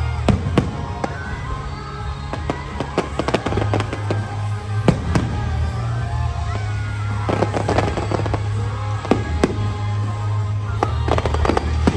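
Aerial fireworks bursting and crackling: sharp single bangs, with dense clusters of crackles several times, over show music with a steady heavy bass.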